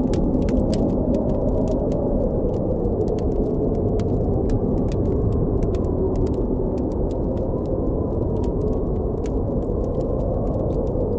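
Blizzard wind blowing steadily in a low, even rush, with a campfire crackling over it in many small, sharp pops and snaps.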